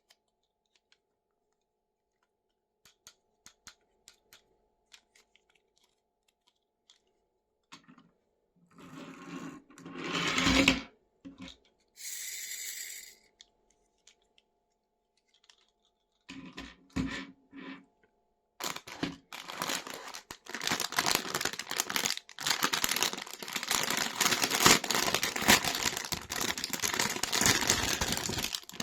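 Toy packaging being handled and opened: scattered small clicks, then rustling and tearing, a few knocks, and a long stretch of dense crackling, crinkling noise in the second half.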